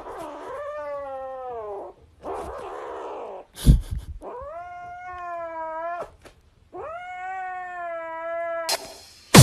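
Grey kitten yowling in four long, drawn-out calls, the second one rougher and breathier than the rest. A sharp knock comes a little after three and a half seconds in.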